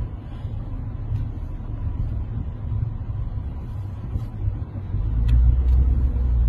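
Low, steady rumble of passing road traffic, swelling louder about five seconds in.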